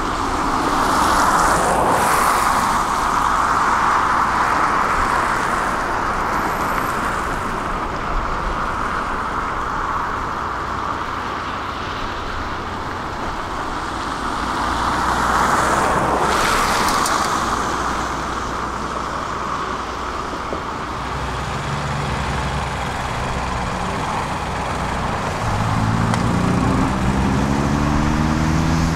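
Steady road-traffic noise, with vehicles passing about two seconds in and again about sixteen seconds in. Near the end a heavy engine revs up, its pitch climbing in steps.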